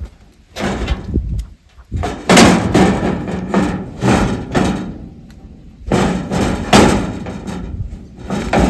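A string of loud clunks and bangs, several in a row about a second apart: heavy metal parts being handled on an old Allis-Chalmers HD21 crawler dozer before it is started.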